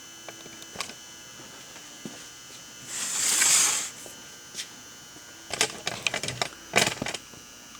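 Handling noise: a brief hiss lasting about a second, then a run of light clicks and knocks a couple of seconds later, over a faint steady hum.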